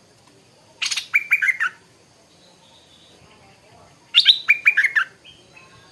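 Stripe-throated bulbul singing two short phrases of quick, bubbling notes, about three seconds apart.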